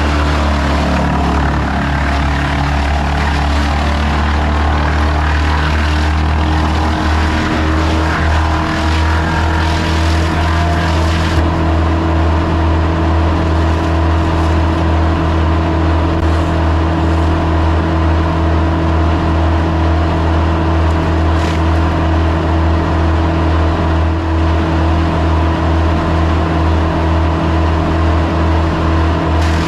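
A large engine running at steady speed, a low even drone with a regular pulsing in it from several seconds in. A lighter hiss over it drops away about a third of the way through.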